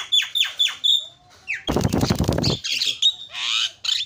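Javan myna (jalak kebo) calling: a quick run of falling notes, about four a second, ending in a short high whistle, then a loud harsh rasping squawk about halfway through, followed by a jumble of chattering notes.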